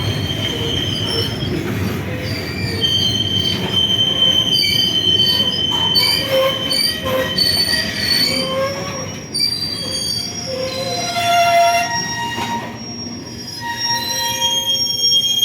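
Freight train wagons running over a bridge: the wheels squeal with several high, shifting tones over a low rumble, and the rumble thins out about halfway through.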